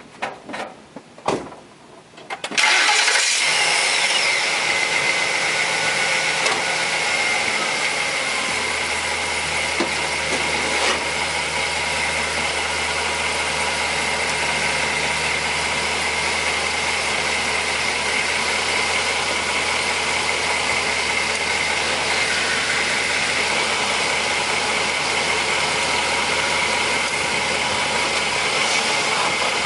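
Ford Expedition's 5.4-litre V8 engine starting about two and a half seconds in, then running steadily at idle with a steady high whine over it.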